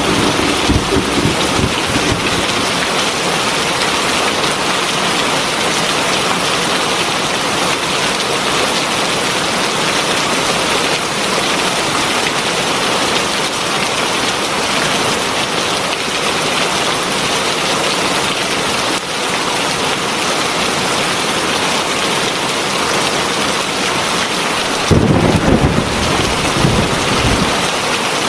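Heavy rain falling steadily. A low rumble of thunder fades out in the first second, and another rolls in about 25 seconds in, lasting a couple of seconds.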